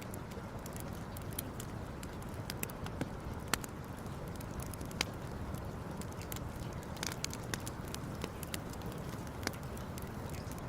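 Campfire crackling: scattered sharp pops and snaps, a few louder than the rest, over a steady low rushing background.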